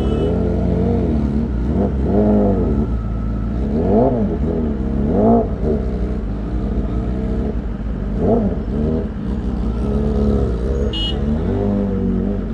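Superbike engine being blipped repeatedly at low speed, the engine note rising and falling with each twist of the throttle about every two seconds. A short high beep sounds near the end.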